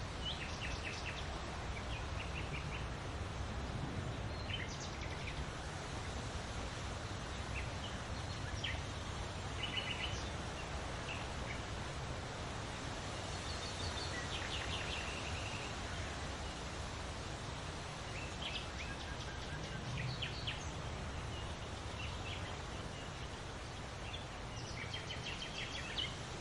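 Small songbirds chirping and trilling in short scattered phrases over a steady rustle of leaves in the wind.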